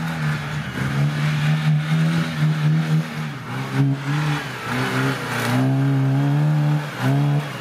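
Off-road 4x4's engine revving, its pitch rising and falling several times as the throttle is worked, steadier for the first few seconds.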